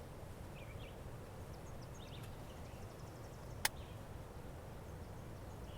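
Quiet outdoor ambience with a few faint, short bird chirps in the first half and a single sharp click about two-thirds of the way through.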